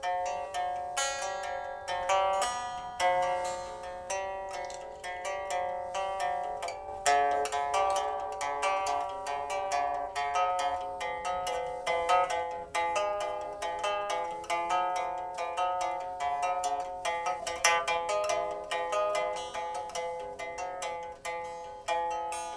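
Instrumental music on a plucked zither: a steady stream of plucked notes that ring on and overlap as they fade.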